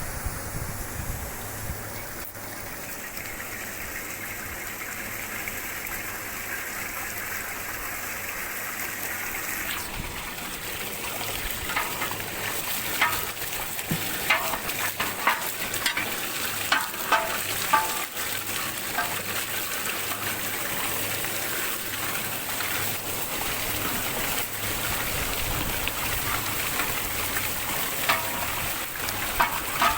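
Hot wash water spraying and splashing inside a dairy milk vat while the vat-wash pump runs, a steady hiss. About ten seconds in it grows louder and brighter, with scattered short splashes on top.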